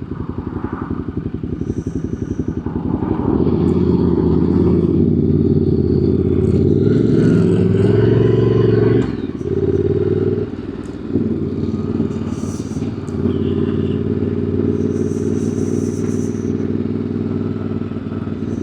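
Ducati Multistrada's V-twin engine under way, heard from the rider's seat: the engine note builds about three seconds in and runs harder for several seconds, falls away abruptly around the middle, dips briefly once more, then settles to a steady cruise.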